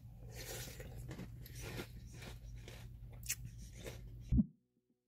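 Close-up crunching and chewing of a mouthful of Post Donuts cereal, many small crackles over a steady low hum. The sound cuts off suddenly about four seconds in.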